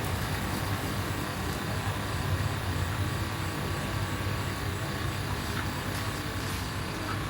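A steady low mechanical drone, like an engine or motor running continuously, with a few faint ticks.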